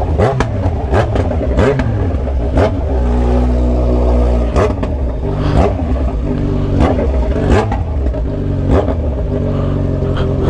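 Kawasaki Z900RS inline-four running through an Atalla stainless-steel header and short 'canela seca' muffler while ridden. The loud exhaust note rises and falls repeatedly as the throttle is opened and closed, with short sharp cracks mixed in.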